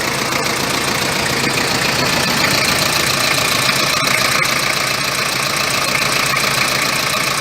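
Toyota 1KZ-TE 3.0-litre four-cylinder turbodiesel running steadily at idle.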